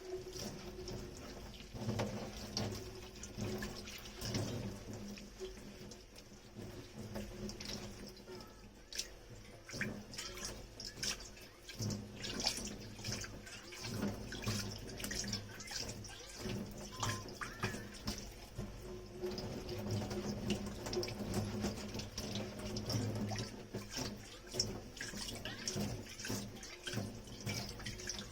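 Dishes being washed by hand in a kitchen sink: water running from the tap and splashing, with frequent light clinks and knocks of dishware and scrubbing.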